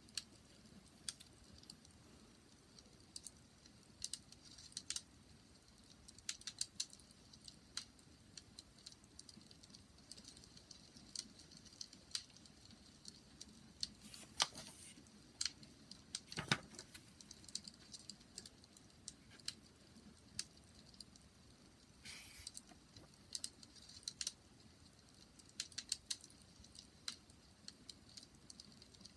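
Wood fire crackling: scattered small snaps and pops at an uneven pace over a low steady rumble, with a few louder pops about halfway through and once more later.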